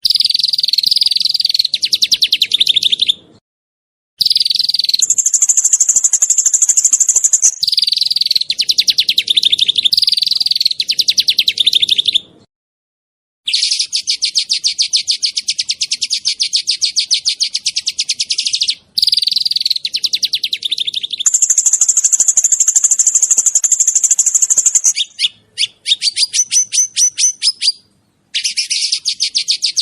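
A small songbird singing long, very fast trills of sharp, rapidly repeated high notes ('tembakan', the 'shooting' song style), in phrases of a few seconds separated by brief pauses.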